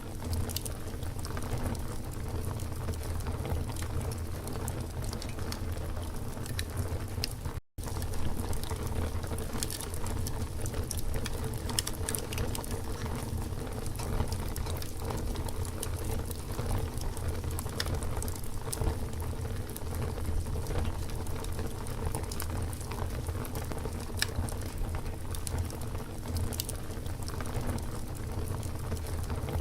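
Campfire burning, with wood crackling and popping in many small irregular snaps over a steady low rumble of flames. The sound cuts out completely for a split second about eight seconds in.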